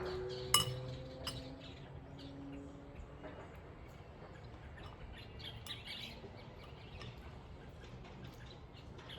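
Wild birds chirping outdoors, with a single clink about half a second in and a low steady hum underneath during the first few seconds.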